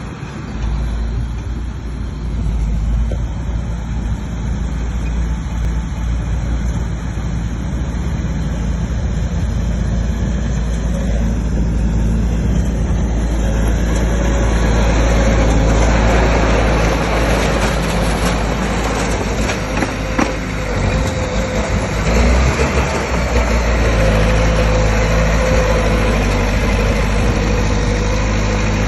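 Bulldozer's diesel engine running steadily, growing louder and rougher from about halfway through as it works under load.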